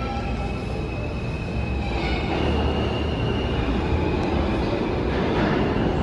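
New York City subway train running along the platform, a steady rumble with thin high-pitched whining tones over it, growing slightly louder.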